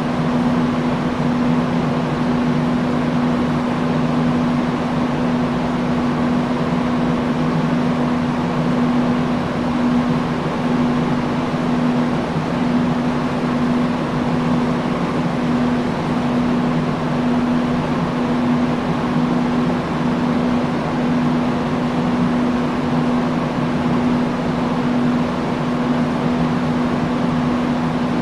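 Industrial fan running steadily: an even rush of moving air with a steady low motor hum.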